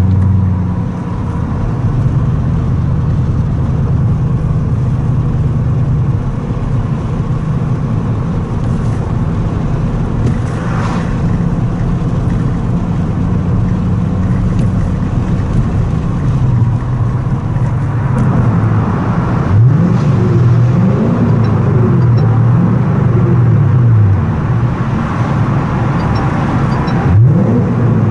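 Toyota Crown Majesta (18 series) 4.3-litre V8 through a straight-through exhaust with a ZEGUS SPEED Margay rear muffler, driven in a tunnel. It drones steadily while cruising, then about two-thirds of the way in the revs climb and fall several times in quick succession, and once more near the end.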